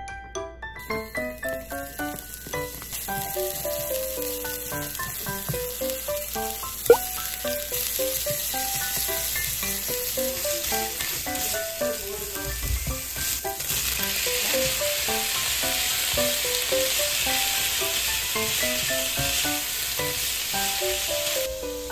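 Ground pork and diced daikon sizzling as they fry in a nonstick frying pan, stirred with a spoon; the sizzle grows louder in the second half. Light background music plays over it, and there is one sharp click about seven seconds in.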